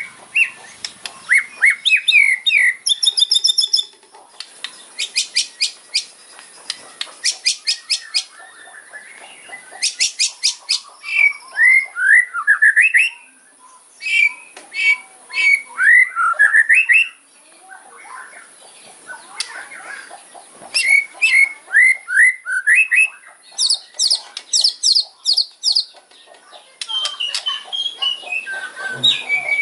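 White-rumped shama singing its kretekan, the rapid crackling song: fast rattling trills of clicks alternate with short, sharply rising whistled notes, in phrases a few seconds long with brief pauses between.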